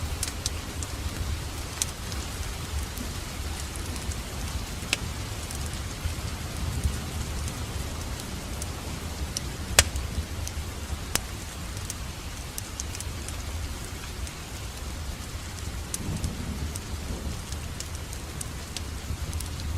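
Wood fire crackling in a fireplace: a steady hiss and low rumble with scattered sharp pops, the loudest about ten seconds in.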